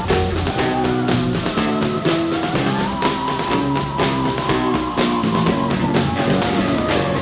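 Rock band playing an instrumental passage with drums and guitar. A held lead note slides up about two and a half seconds in and slides back down near the end.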